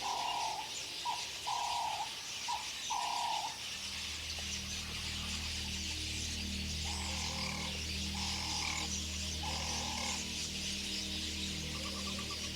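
A bird calling in short, mid-pitched notes of about half a second each: several in the first three seconds, then three more spaced about a second apart later on, over a steady high hiss of outdoor ambience. A low steady drone comes in about four seconds in.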